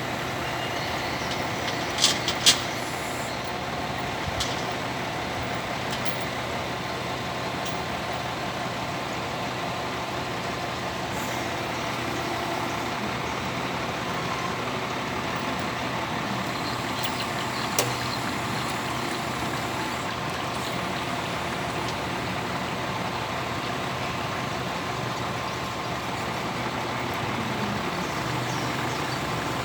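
Excavator engine running steadily under work, with two sharp knocks about two seconds in and another about two-thirds of the way through.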